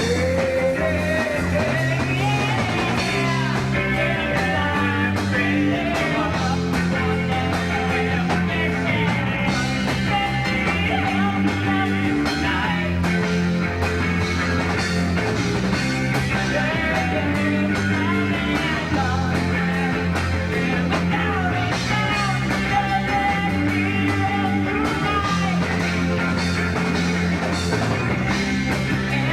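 Rock band playing live: a guitar lead with bending notes over a steady bass line and drums.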